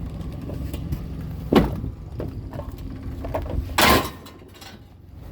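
Two knocks as scrap umbrella parts are handled: a sharp one about a second and a half in and a louder, longer clatter near four seconds. A vehicle engine idles steadily underneath.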